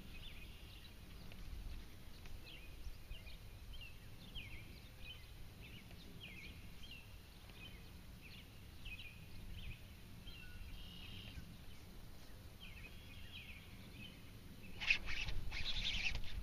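Small birds chirping repeatedly over a low rumble. About a second before the end, a sudden louder, rough clattering noise begins as a fish strikes and is hooked.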